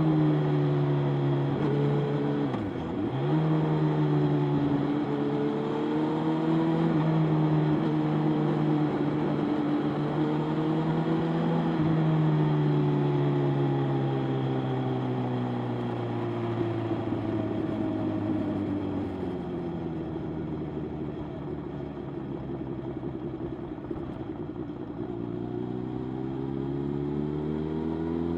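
Motorcycle engine running under way, dropping in pitch sharply a couple of seconds in as on a gear change, then holding, easing off gradually through the middle and rising again near the end as it accelerates.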